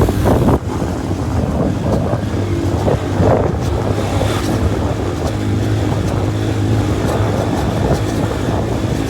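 Motorcycle engine running while riding, with heavy wind buffeting the microphone.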